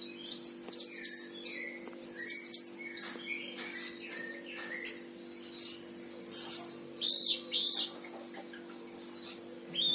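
Mantenan Himalaya songbird singing a varied song of fast, high trills and short whistled phrases, with a steady low hum underneath.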